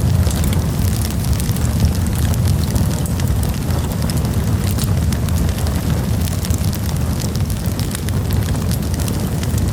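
Campfire burning, with frequent sharp crackles and pops of wood over a steady low rumble.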